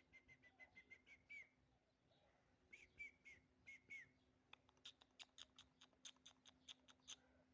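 Faint bird calls: a quick run of short chirps, then a few down-slurred notes, then a fast series of sharp chirps about six a second that stops shortly before the end.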